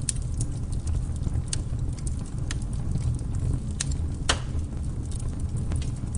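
Wood fire crackling: irregular sharp pops and snaps, the loudest about four seconds in, over a steady low rumble of the flames.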